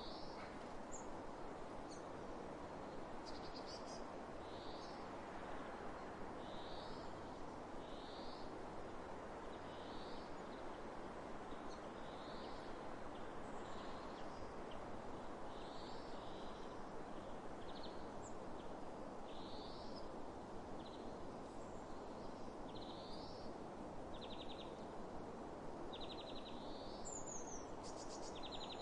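A songbird repeating a short high call about every two seconds, with a few quick buzzy trills between, over a steady hiss of wind across open fields.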